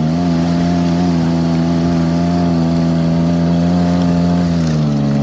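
Side-by-side UTV engine running steadily under way, revs stepping up at the start and easing off near the end.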